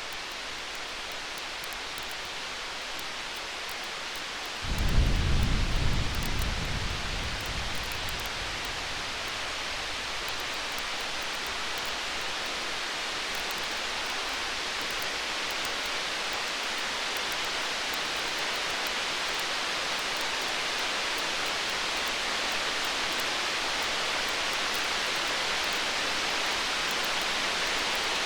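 A single roll of distant thunder starts suddenly about five seconds in and fades over a few seconds, over a steady rain-like hiss with faint campfire crackles. The hiss grows slightly louder toward the end.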